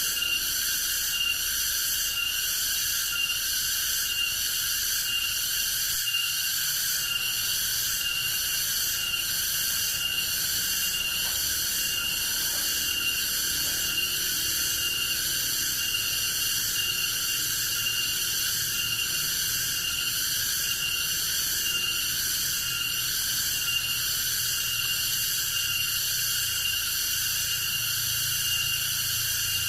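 Chorus of forest insects: a steady high-pitched drone with a pulsing shimmer about twice a second.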